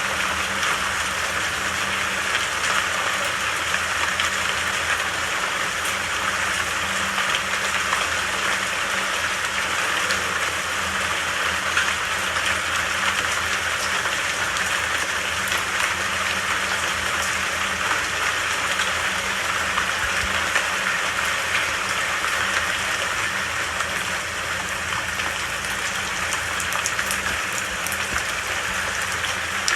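Steady, dense rainfall pattering on leaves and ground, a continuous even hiss of drops.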